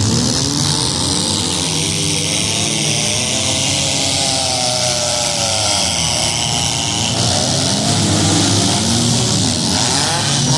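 Several demolition derby cars' engines running and revving at once, their pitches rising and falling and crossing one another.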